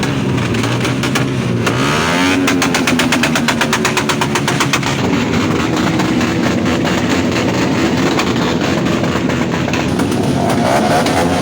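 Car engine running and revving, its pitch rising about two seconds in, with a rapid train of sharp pops through much of it.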